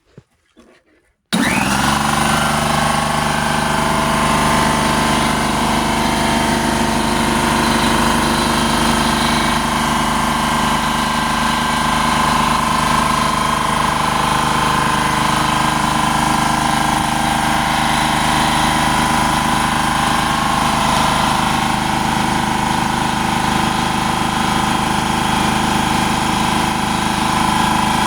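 Klutch 29-gallon electric air compressor switching on about a second in, then running steadily as it pumps up its tank.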